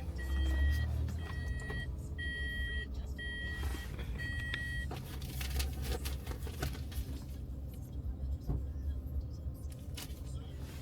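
Car's electronic warning chime beeping about five times at an even pace, then stopping, over the low rumble of the vehicle.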